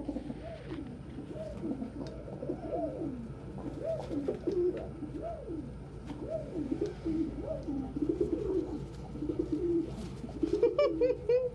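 Domestic pigeons cooing over and over, low rolling coos that rise and fall, with a short run of higher, quick squeaky calls near the end.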